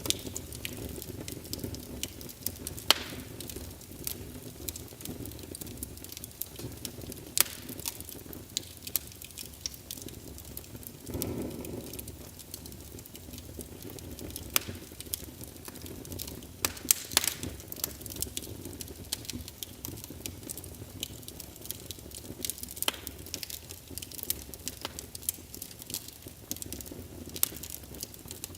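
Wood logs burning in a fireplace, crackling with irregular sharp pops over a steady low rumble of flame. About eleven seconds in, the rumble briefly swells louder.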